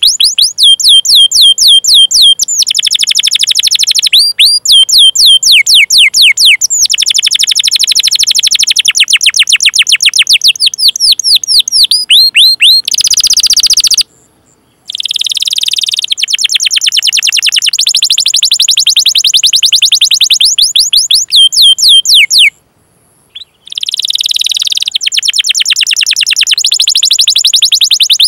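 Domestic canary singing long rolling trills: fast runs of high, downward-sweeping chirps, each run a few seconds long, broken twice by short silences past the middle.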